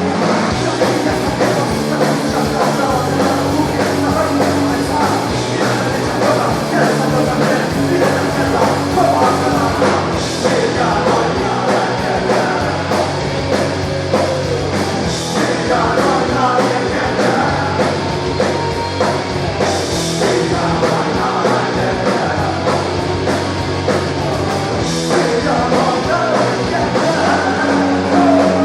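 Rock band playing a punk-rock song live, with guitars, bass and drum kit and a singing voice.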